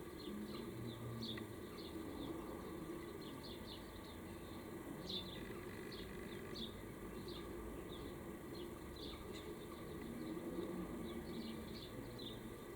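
Small birds chirping: many short, high chirps at irregular intervals, over a low steady background hum.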